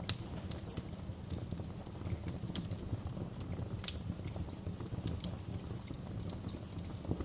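Wood fire crackling in a fireplace: irregular sharp pops and snaps over a steady low rumble of burning, with two louder pops, one at the very start and one about four seconds in.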